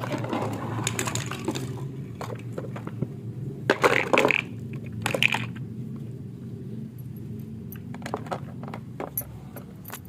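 Small hard objects clattering and clinking as they are handled, in scattered clicks with a louder rattle about four seconds in and another just after five, over a steady low hum.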